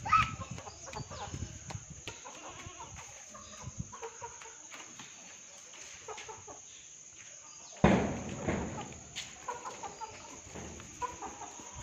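Chickens clucking in short scattered calls, with a sudden loud burst of noise about eight seconds in that fades over a second.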